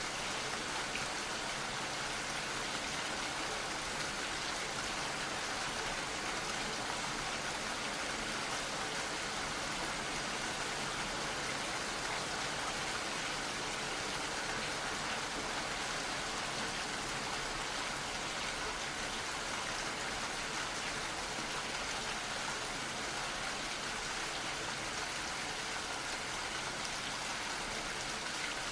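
Gentle rain falling steadily, a constant hiss of drops.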